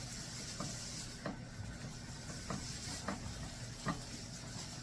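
Butter sizzling in a skillet, a steady hiss, with about five light knocks spread through it.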